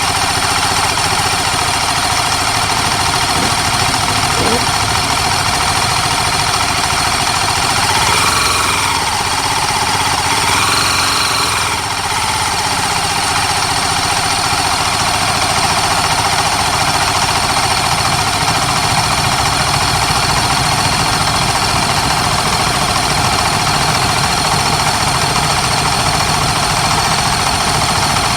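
Racing motorcycle engines running steadily at a constant pitch, with two brief revs that rise and fall about eight and eleven seconds in.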